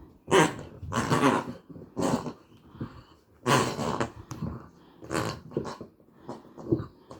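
A puppy making a string of short, rough vocal sounds, about seven in all, some loud and some faint.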